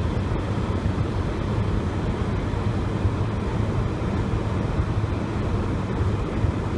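A car driving: a steady low rumble of engine and tyre noise from the moving car.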